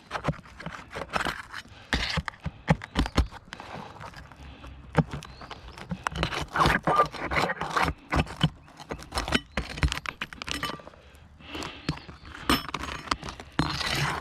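Brittle asphalt roof shingles being pried up and scraped by hand to get at the nails beneath, with irregular scraping and rustling broken by sharp clicks and knocks.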